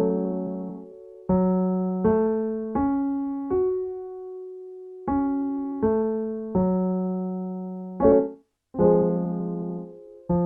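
Piano playing a vocal-warmup pattern: single notes climb a broken minor chord to a long-held top note, then step back down, followed by a couple of chords setting up the next key. It is the accompaniment for a minor-arpeggio-and-sustain exercise.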